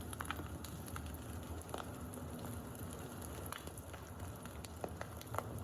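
Campfire recording crackling: scattered sharp pops and snaps over a steady low rumble.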